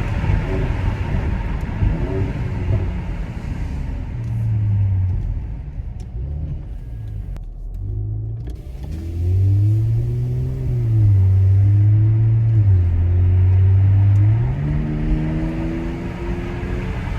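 Mercedes-AMG GLC 43's 3.0-litre twin-turbo V6 running, its note rising, falling and holding steady as the revs change. There is a dense rough stretch in the first few seconds and a rise in pitch near the end.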